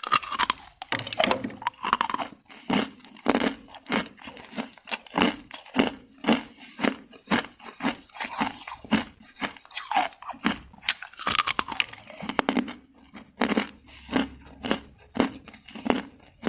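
A person chewing hard, crunchy ice close up: a steady run of sharp crunches, about two a second.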